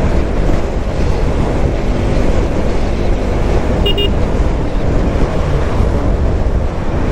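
Motorcycle riding along a highway: steady wind rush over the microphone mixed with engine and road noise, with a brief high beep about four seconds in.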